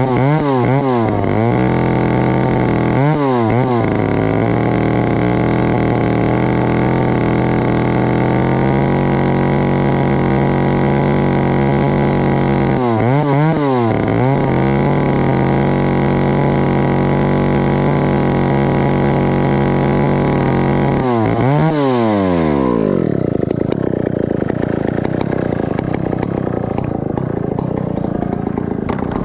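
Stihl 051 two-stroke chainsaw running at high revs, the throttle let off and snapped open again several times (about a second in, around 3 s, around 13–14 s and around 21 s), then dropping back to a rougher idle about 22 seconds in. The exhaust is very loud, and the owner says it needs fixing.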